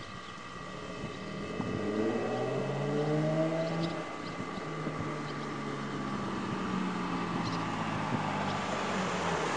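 Nissan 350Z's V6 with an HKS aftermarket exhaust accelerating: the engine note climbs in pitch for about two seconds, drops off about four seconds in, then pulls on at a steadier pitch while road and wind noise build toward the end.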